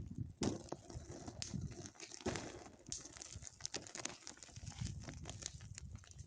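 Small wood fire crackling in an improvised garden fire pit, with irregular snaps and pops over a low rumble.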